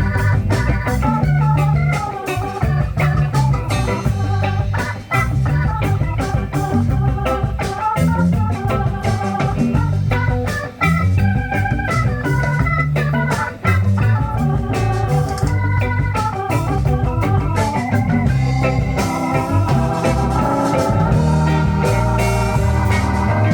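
Live band playing an instrumental break: an organ lead over bass and drums.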